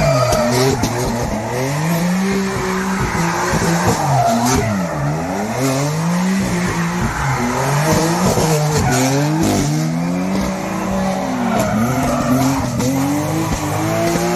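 Hillclimb race car engine revving hard, its pitch rising and falling over and over as it is driven on and off the throttle and through the gears, with tyre skid noise.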